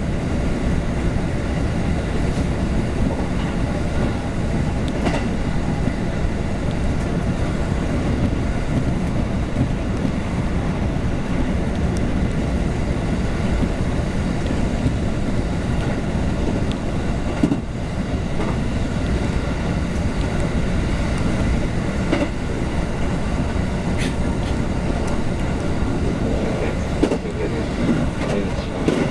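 Running noise heard from inside a moving JR West electric train: a steady low rumble of wheels on rail, with a few clicks and knocks over rail joints.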